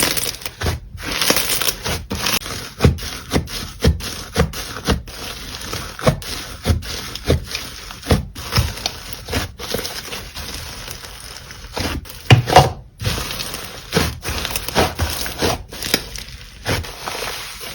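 Slime being squished and pressed by hand, with a run of short sharp pops and clicks, about one or two a second.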